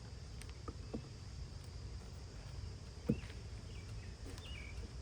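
Low steady hum of honeybees around an opened hive, with a few light clicks and a sharper knock about three seconds in as the frames are handled. A few faint high chirps come near the end.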